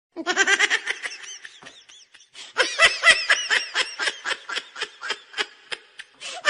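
A baby laughing in quick, high-pitched bursts: one fit that starts right away and fades, then a louder fit of rapid laughs from about two and a half seconds in.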